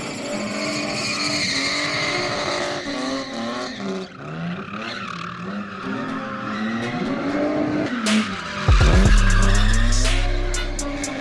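Spinning and drifting car with its engine revving up and down hard and its tyres squealing and skidding. Near the end a loud, steady, deep low sound and sharp clicks come in.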